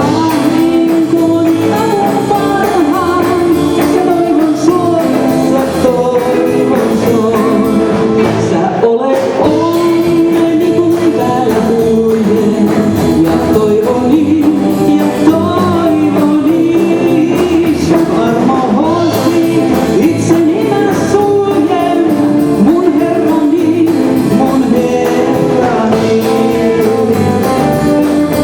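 A band playing a Finnish gospel song live, with a singer's voice over guitar accompaniment and a brief break about nine seconds in.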